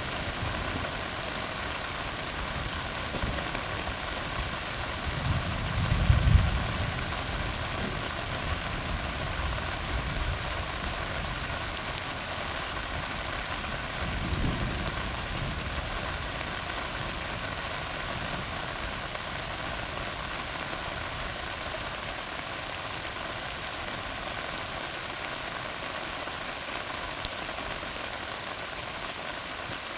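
Steady rain falling on a tar road. Low rumbles of thunder swell up about six seconds in, the loudest moment, and more faintly near the middle.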